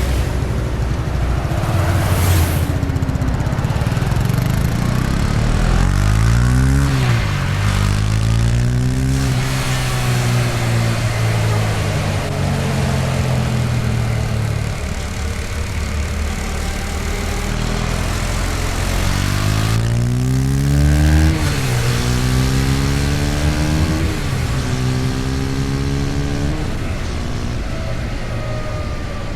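KTM Duke 250's single-cylinder engine under a rush of wind and road noise, twice pulling hard through the gears: its pitch climbs steeply and drops sharply at each upshift, two or three shifts in quick succession. Between the two pulls it holds a steady cruise.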